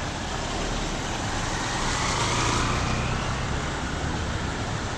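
Steady hiss of rain, with a motor vehicle passing on the wet road, louder about two to three seconds in.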